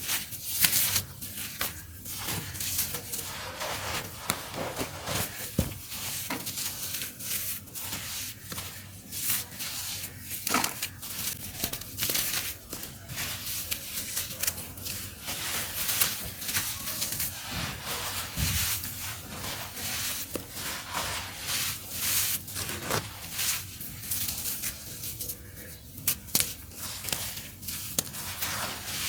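Lumps of dry, earthy dirt being crumbled by hand, giving a continuous run of crunchy crackling made up of many small, sharp crunches.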